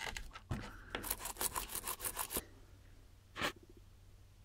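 Quick rubbing strokes, as of cloth wiping over the unit's faceplate: a fast run of about ten short strokes in a second and a half, then one more single rub about a second later.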